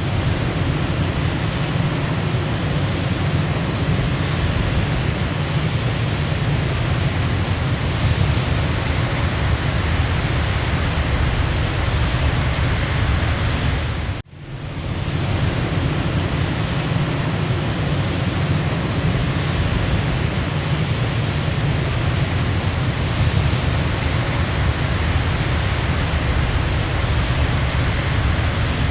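Waterfall rushing: a steady, dense roar of falling water. About halfway through it cuts out for a split second and then swells back in, as at the seam of a looped recording.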